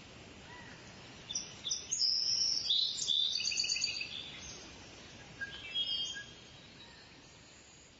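Small birds chirping: a burst of high, rapid, overlapping chirps starts about a second in and runs for two to three seconds. A shorter burst follows about five and a half seconds in, over a steady background hiss.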